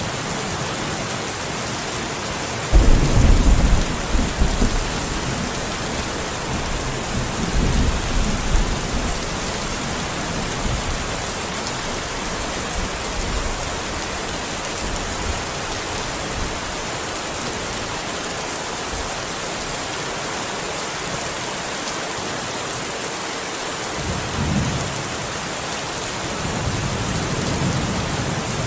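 Steady rain with rolling thunder: a sudden loud low rumble about three seconds in that rolls on for a couple of seconds, another rumble around eight seconds, and a fainter one near the end.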